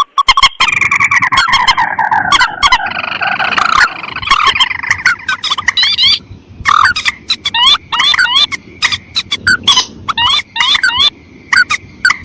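Rail and crake calls (mandar and tikusan) from a lure recording used to attract paddy-field birds: rapid, sharp notes repeated over and over, with a falling trill near the start.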